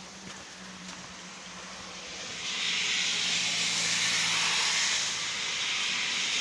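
Rain falling steadily, then coming down much harder about two and a half seconds in: a thunderstorm downpour setting in.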